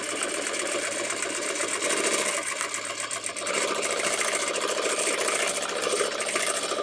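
Sewing machine stitching rapidly and steadily while free-motion quilting a circle, a fast even chatter of needle strokes.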